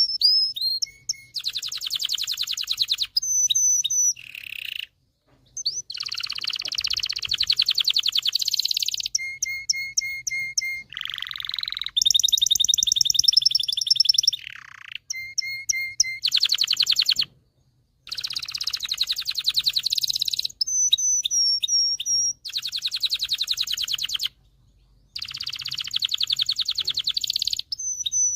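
Domestic canary singing a long song of varied phrases: fast rolling trills and buzzy rattles alternate with repeated high whistled notes and chirps, with brief pauses between phrases.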